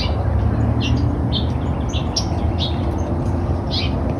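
Birds chirping in short, repeated calls, about two or three a second, over a steady low rumble of wind on the microphone.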